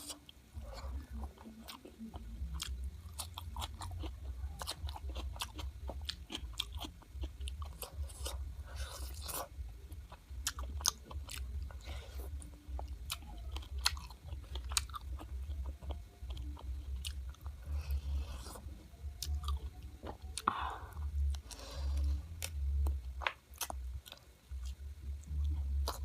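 Close-miked chewing and crunching of chicken, with many quick wet mouth clicks and smacks at an irregular pace. A steady low hum runs underneath.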